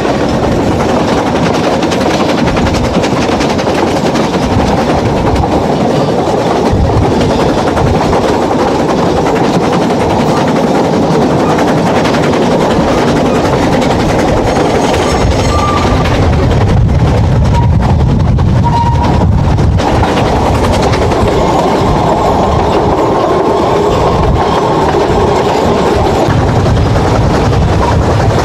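Narrow-gauge train running, heard from an open carriage window: a loud, steady rattle of wheels on the track, with a couple of brief high squeals about halfway through as the train rounds the curve.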